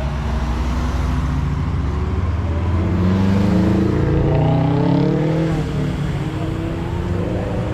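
Car engines running as cars drive past, with a low steady rumble; about three seconds in one engine is revved, its note rising for a couple of seconds before settling.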